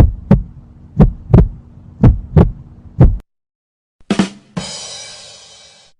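Heartbeat sound effect: a low double thump (lub-dub) about once a second, four times. Then a 'ba dum tss' drum sting: quick drum hits followed by a cymbal crash that rings out and fades.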